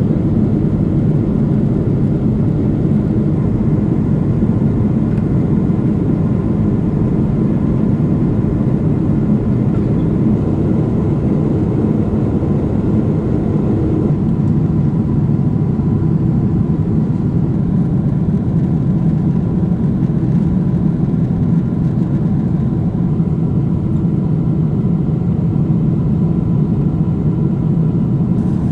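Steady cabin roar of a Boeing 777-300ER climbing after takeoff: the deep rush of its GE90 engines and airflow, with a faint steady whine above it.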